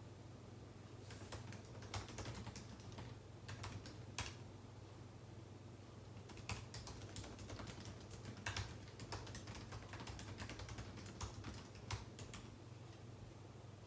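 Typing on a computer keyboard: irregular runs of keystrokes with short pauses between them, over a faint steady low hum.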